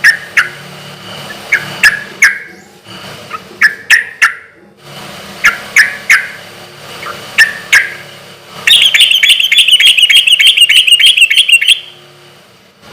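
Yellow-vented bulbul (trucukan) calling loudly in short, sharp notes, often in pairs, every second or two. About nine seconds in, a fast chattering trill runs for about three seconds.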